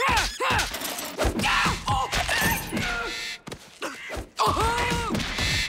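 Cartoon scuffle sound track: short vocal grunts and cries mixed with quick thuds and knocks, with one longer held cry near the end.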